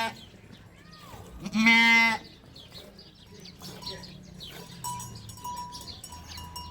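A single loud bleat from a sheep or goat of the flock, lasting under a second, about a second and a half in. Fainter, thin ringing tones come and go from about four seconds in.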